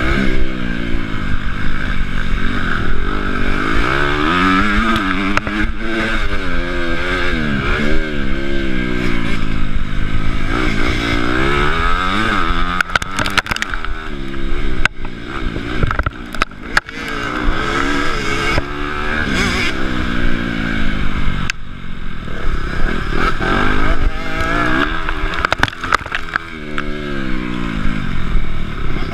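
Honda CRF250 four-stroke single-cylinder motocross engine, heard from the rider's chest, revving up and dropping again over and over as the bike is ridden hard around the track. A run of sharp clattering knocks comes about halfway through.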